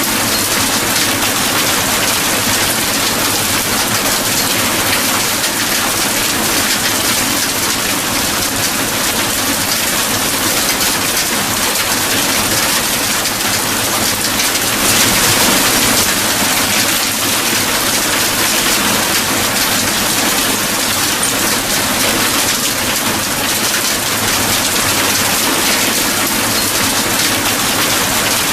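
Steady heavy rain falling on a surface, an even hiss of drops that swells slightly about halfway through.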